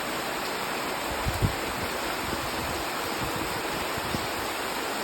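Heavy rain pouring down as a steady, even hiss, with a brief low thump about a second and a half in.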